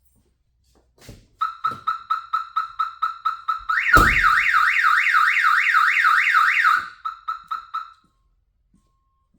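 Pickup truck's alarm siren set off by the battery being connected. It gives rapid beeps, about five a second, then after a thump about four seconds in switches to a fast warbling wail. Near the end it goes back to beeps and cuts off about eight seconds in.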